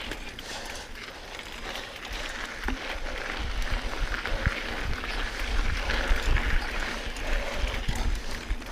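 Mountain bike riding over a rough dirt trail: continuous tyre and trail noise with clicks and rattles from the bike, and low rumbling thumps from bumps and wind on the microphone.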